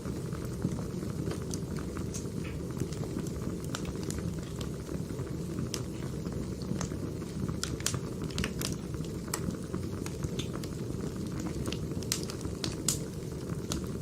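Wood fire crackling: irregular sharp snaps and pops of burning firewood over a steady low rumble of the flames.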